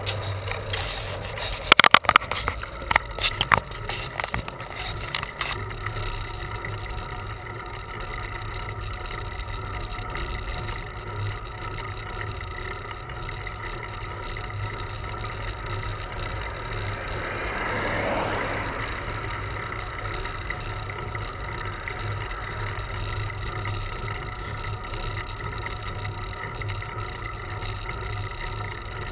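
Steady rolling noise of a bicycle ride picked up by the riding camera, with a cluster of sharp clicks and knocks about two seconds in. A vehicle passes about two-thirds of the way through, swelling and then fading.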